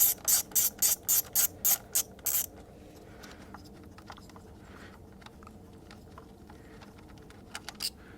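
Ratchet wrench with a 10 mm socket clicking in a quick run of about nine clicks, roughly four a second, while working an ignition-coil retaining bolt. A few faint handling clicks follow near the end.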